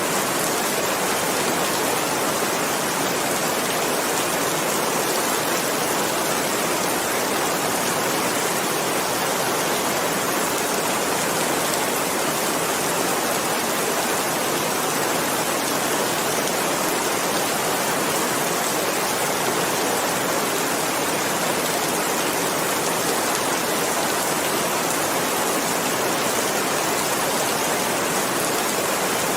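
Steady rain falling, a dense even hiss of many drops with no single drops or thunder standing out.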